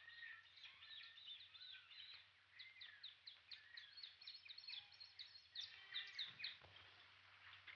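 Faint jungle bird calls: many quick chirps and rising and falling whistles, thickest in the middle, over the steady low hum and hiss of an old film soundtrack.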